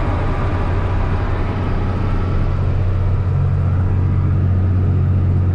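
Tractor engine running steadily with a low hum, heard from inside the cab while it hauls a liquid manure tank across the field.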